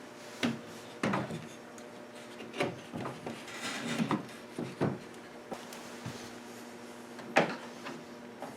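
Wooden parts of a pump organ knocking and scraping as an assembly is screwed together and fitted back into the case: a string of light, irregular knocks and rubs, the sharpest knock about seven seconds in.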